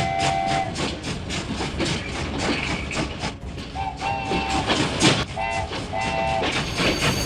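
Cartoon train sound effect: wheels clicking over rail joints in a steady clickety-clack, with a chord whistle sounding at the start and then giving several short toots from about four to six and a half seconds in. A hiss starts near the end.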